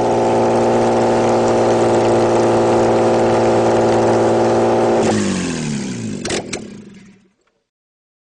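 Mercedes-Benz M103 straight-six petrol engine running steadily with no exhaust manifold fitted, so it exhausts straight from the ports. About five seconds in it is switched off and winds down, falling in pitch, with two sharp clicks before it stops.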